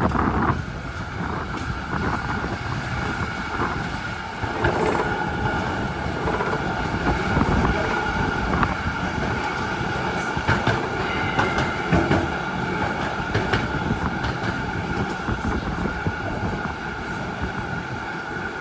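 Z3 class tram running along the track, heard from inside the cabin: a steady rumble of wheels on rail with a steady high whine and scattered clicks.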